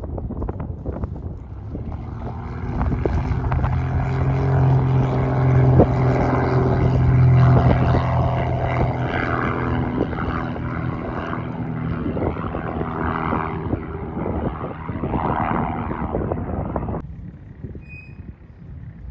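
Small propeller airplane's piston engine droning as it passes, loudest a few seconds in and then easing off, with wind hiss over it; the sound cuts off abruptly near the end.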